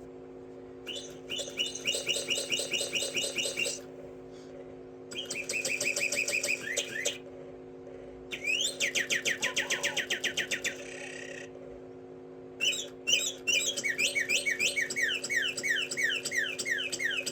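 Bird song in four bursts of fast, repeated chirps and trills, each a few seconds long with short pauses between, over a steady low hum.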